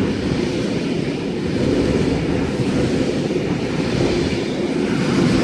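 K-set double-deck electric train running past, a steady rumble of wheels on the rails.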